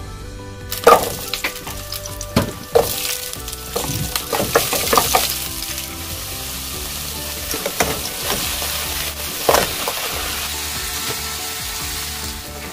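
Shrimp frying in hot oil in a pot: a steady loud sizzle, broken by several knocks and clatters of stirring against the pot. Soft background music runs underneath.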